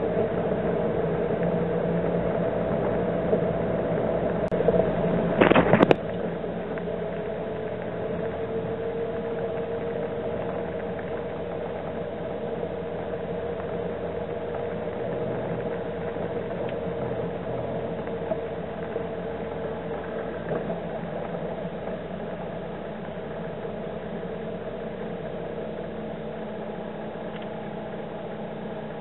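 Vehicle engine running slowly and steadily, heard from inside the car as a low hum. A brief loud rush of noise comes about six seconds in.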